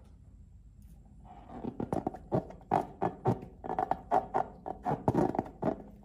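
Slime being squeezed and poked by hand, making a quick run of sticky clicks and squelches, several a second, starting about a second in.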